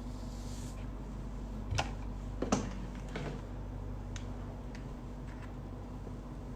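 A few light clicks and taps, two sharper ones about two seconds in and fainter ticks after, over a steady low hum.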